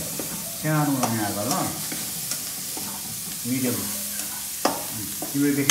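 Chopped onion and spices sizzling in oil in a wok on a gas stove while a spatula stirs them, with one sharp clack of the spatula against the pan about three-quarters of the way through.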